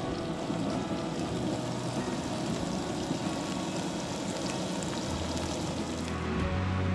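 Bacon and egg frying on a propane camp griddle: a steady crackling sizzle. Faint background music comes in about five seconds in.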